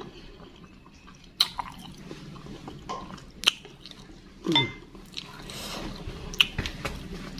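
Close-up eating sounds of a person chewing bakso meatballs in spicy soup: wet chewing and mouth noises with a few sharp clicks. A short, falling vocal sound comes about four and a half seconds in.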